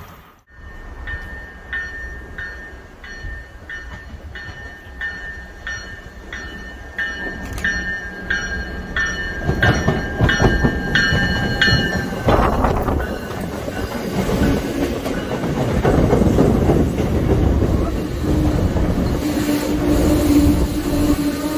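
A warning bell rings about twice a second, typical of a grade-crossing bell, and stops about halfway through. A passing train's rumble and wheel clatter build up and take over, and a steady low tone comes in near the end.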